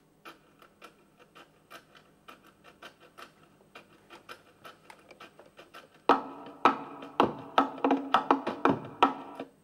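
Music: a percussion passage of quick, sharp knocks in a steady rhythm, faint at first and much louder from about six seconds in.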